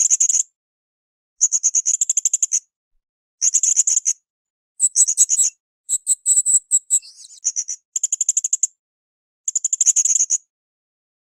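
Blue-crowned hanging parrot (srindit) calling in high-pitched, rapidly pulsed trills, each about a second long and repeated every second or two. Near the middle one phrase is differently shaped, with faint clicks beneath it.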